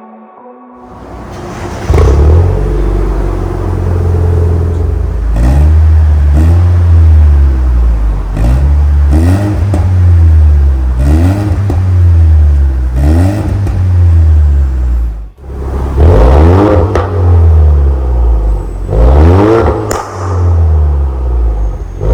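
Lexus 8AR-FTS 2.0-litre turbocharged four-cylinder revved in repeated short throttle blips through an MS-R valved cat-back exhaust. Each blip rises and falls over about a second, over a steady low rumble, with a brief break about fifteen seconds in.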